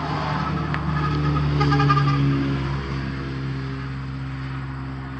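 A steady, engine-like mechanical drone that swells to its loudest about two seconds in and then eases off.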